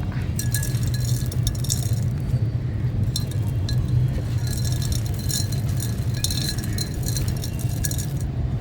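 Dry, stony sand-cement chunks being crushed and crumbling: a dense run of fine, crisp crackles and small clinks that eases off briefly a couple of times, over a steady low hum.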